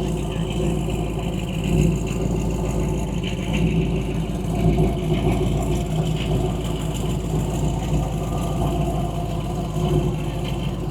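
A car engine running steadily at idle, with an even, unbroken low hum.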